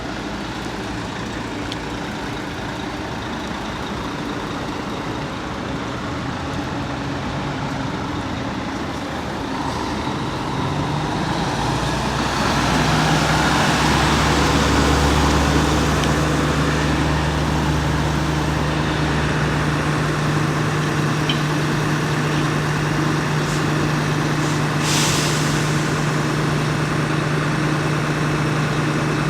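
Fire truck engine running, speeding up and getting louder about ten seconds in, then holding steady at the higher speed, with a short hiss near the end.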